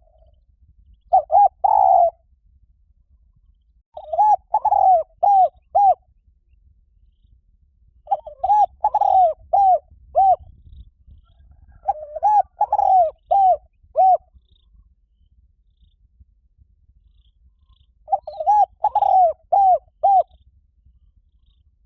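Spotted dove calling: five cooing phrases a few seconds apart, each a quick run of several short coos.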